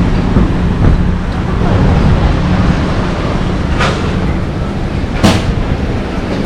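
Steady low rumble of a running vehicle with an engine hum, and two short sharp sounds about four and five seconds in.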